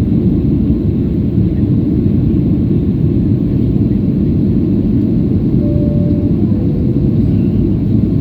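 Steady low roar of a Boeing 737-800's CFM56-7B engines and rushing air, heard from inside the passenger cabin as the airliner runs at high power during its takeoff and climb-out.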